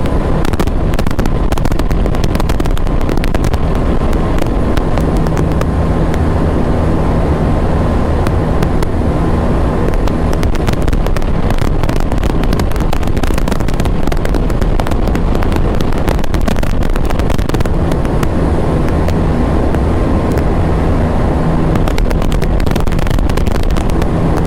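KTM Duke 390 single-cylinder motorcycle engine running hard at steady high revs at speed, during a top-speed run, with a dense crackle laid over it.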